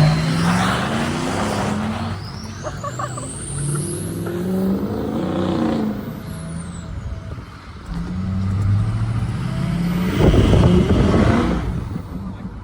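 Pickup truck engines revving up and down repeatedly, with a faint high whine that rises and later falls. About ten seconds in, a loud rush of noise lasts a second or so.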